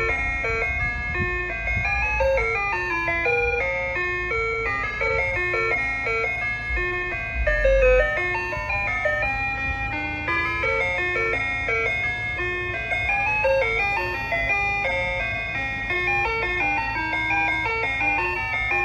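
Ice cream truck jingle playing over its loudspeaker: a steady electronic chime melody of short notes, with a low rumble underneath that swells briefly about halfway through.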